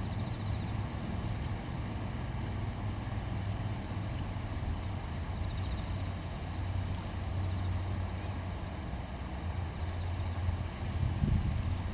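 River water flowing over stones: a steady, even rushing with a deep low rumble. Low wind buffeting on the microphone rises near the end.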